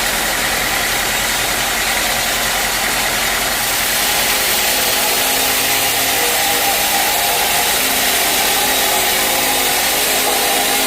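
Sawmill machinery running steadily: a motor's hum under a constant loud hiss, with no break or change.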